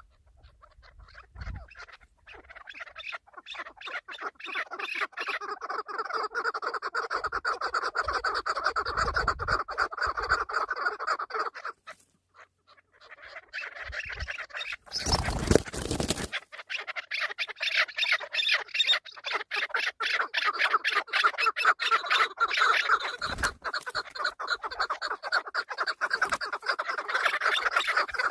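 Chukar partridges calling: long runs of rapid, repeated clucking notes that die away about twelve seconds in and start up again. A loud rushing noise cuts across the calls for about a second and a half midway.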